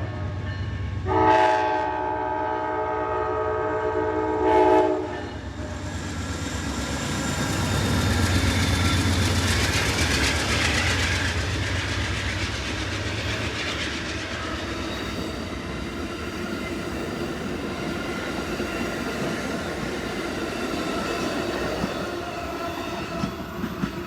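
Amtrak passenger train's diesel locomotive sounding one long horn blast, about four seconds long, then the train passing close by, its rumble and wheel noise loudest a few seconds after the horn and carrying on steadily as the cars roll past, with wheels clicking over rail joints.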